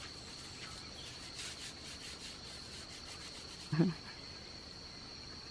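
A steady, high-pitched insect drone, typical of jungle crickets or cicadas, with faint rustling and a brief voice sound a little before four seconds in.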